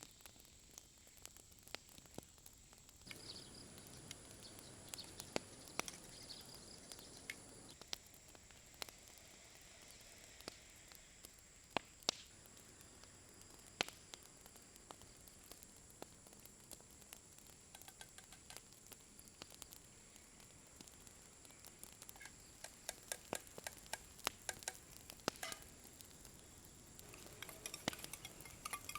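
Faint sizzling of food frying in a pan over a campfire, with scattered crackles and pops that grow busier in the last several seconds. A steady high thin tone runs underneath.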